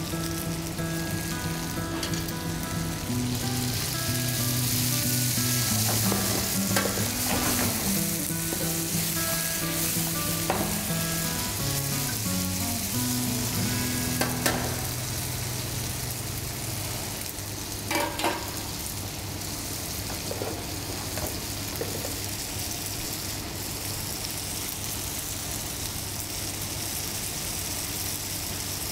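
Diced yellow squash and zucchini sizzling steadily in hot oil in a sauté pan, with a few sharp metallic clicks as tongs toss the vegetables.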